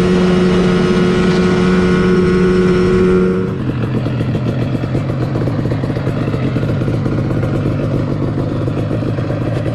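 Targa Twin 275cc twin-cylinder two-stroke Lambretta engine with an expansion-chamber exhaust, running under way at steady high revs. About three and a half seconds in the revs drop suddenly, and it runs on at a lower, steady pitch.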